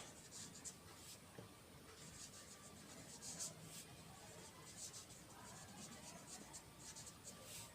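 Faint, irregular scratching of a pen writing out a calculation, in short strokes.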